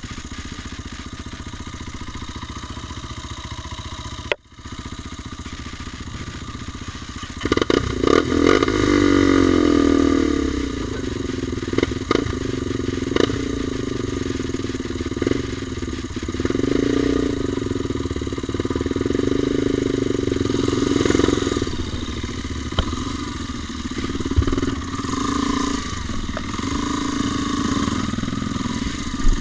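A vehicle engine running steadily. It breaks off for a moment about four seconds in, then from about seven seconds it runs louder, its pitch rising and falling.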